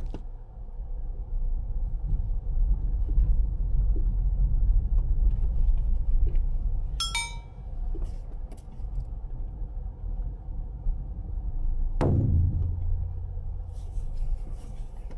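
Steady low rumble, with a short ringing tone about seven seconds in and a knock near twelve seconds.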